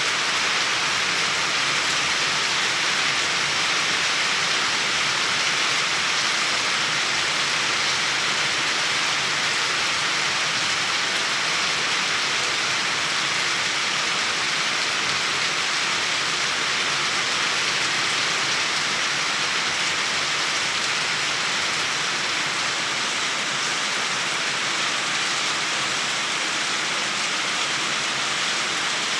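Steady, even rainfall with an unchanging hiss and no thunder.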